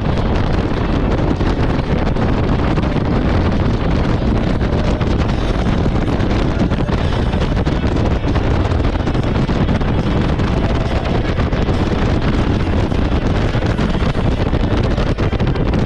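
Steady, heavy wind noise on the microphone from a jet ski running at speed, with the watercraft's engine and water noise underneath.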